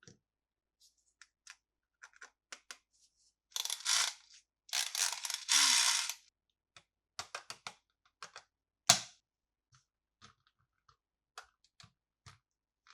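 Plastic toy parts being handled, with scattered light clicks and a run of scraping or rustling a few seconds in, then one loud snap about nine seconds in.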